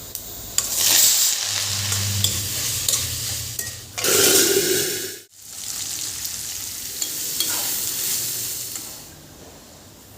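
Food frying and sizzling in a pan while being stirred. The sound cuts out for an instant about five seconds in, then the sizzling resumes more quietly and eases off near the end.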